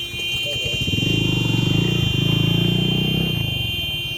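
A road-rail ambulance, a vehicle that runs on both road wheels and rail wheels, passes along the railway track. Its engine rumble swells about a second in and fades near the end.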